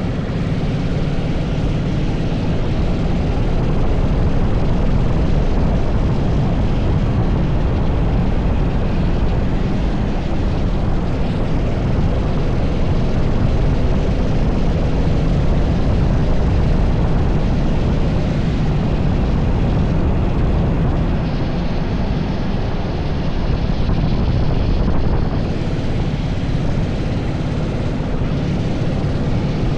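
TS5 80cc racing kart engine running continuously at speed on track, a loud, steady drone that shifts slightly as the throttle changes.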